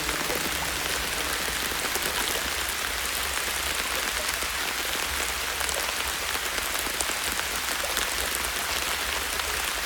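Soft rain falling steadily, a fine patter of many small droplets.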